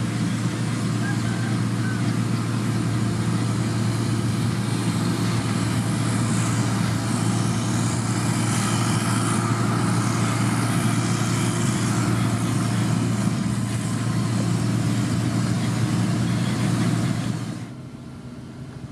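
Heavy construction machine's diesel engine running steadily at a constant speed with a strong low hum. Its sound drops away abruptly about a second before the end.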